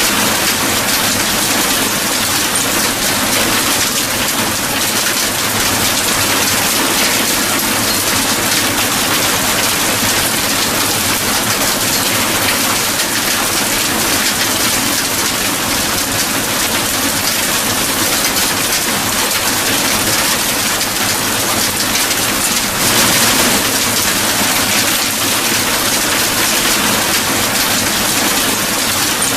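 Steady heavy rainfall, an even hiss of drops, with a brief louder swell about 23 seconds in.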